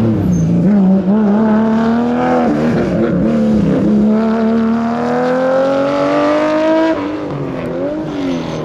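Rally car engine running hard on a mountain stage: the revs dip and recover a couple of times, then climb steadily for about three seconds under acceleration and drop sharply near the end, as at a gear change or lift-off.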